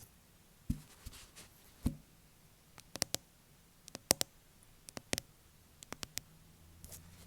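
Fake nails tapping on a hard surface: two duller knocks early, then crisp clicks in quick pairs and triplets, about one cluster a second.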